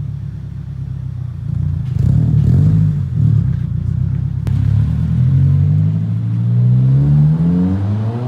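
2025 Subaru WRX's turbocharged 2.4-litre flat-four engine running through a newly fitted aftermarket cat-back exhaust. The note gets louder about two seconds in, then rises steadily in pitch as the engine climbs through the revs near the end.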